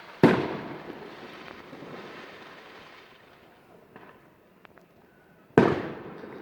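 Two loud firework bangs about five seconds apart, each trailing off in a long rolling echo, with a few faint pops between them.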